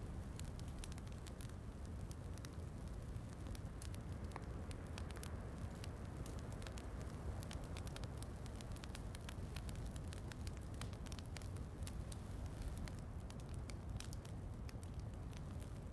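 Wood fire in a fireplace crackling, with frequent small sharp pops over a steady low rumble, mixed with soft rain.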